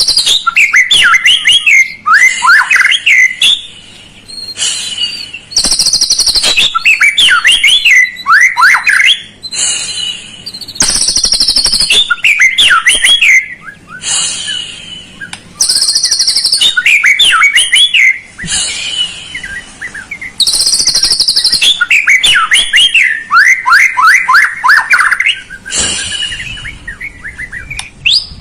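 White-rumped shama (murai batu) song played as a lure recording to provoke a reluctant bird into singing. It comes in loud repeated phrases every two to three seconds, each a harsh, buzzy high note followed by quick falling whistles.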